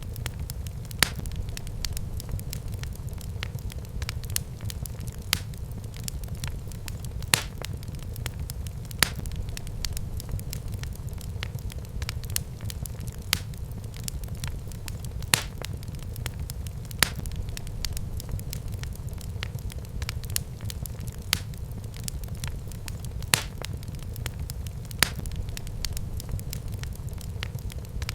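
Wood fire crackling in a fireplace: a steady low rumble of burning with sharp pops every second or two.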